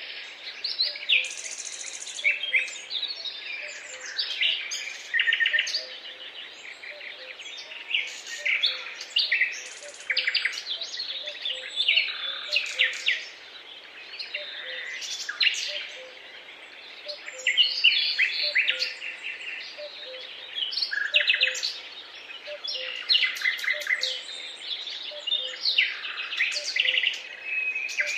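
Several songbirds singing at once, a dense run of overlapping short chirps, whistles and quick trills.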